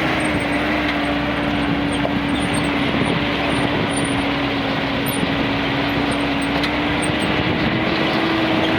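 A steady machine drone: an even hum held at one pitch over constant rushing noise, with no change in level.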